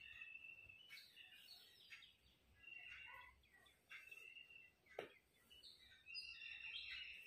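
Faint bird chirps in the background, short high calls scattered through, with a single sharp tap about five seconds in.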